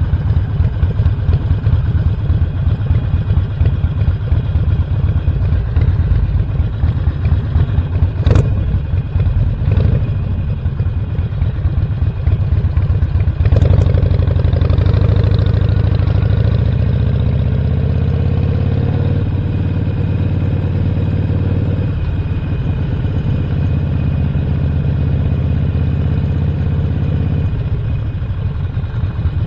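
Harley-Davidson Sportster Roadster's Stage 1 V-twin engine ticking over with a lumpy, uneven beat, with a sharp click about eight seconds in and another about halfway through. It then pulls away, the engine note rising as it accelerates, and settles back to the lumpy beat near the end.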